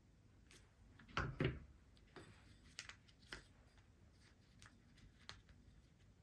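Small craft items being handled on a work table: two soft knocks about a second in, then scattered light clicks.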